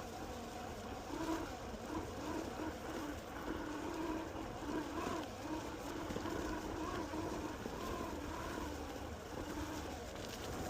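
Electric skateboard hub motors whining, the pitch wavering up and down with speed, over a low rumble of the wheels on pavement.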